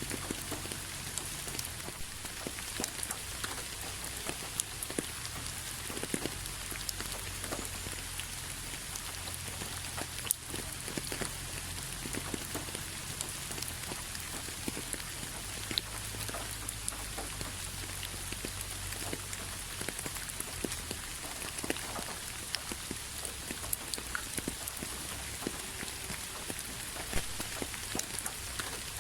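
Steady rain falling on a hard surface, a constant hiss dotted with the ticks of single drops.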